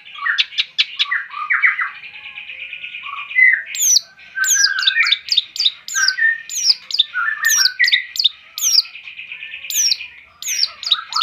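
Long-tailed shrike (pentet/cendet) singing a varied song: a rapid buzzy chattering trill, then from about four seconds in a run of sharp, high, downward-sweeping notes repeated over continuous chatter.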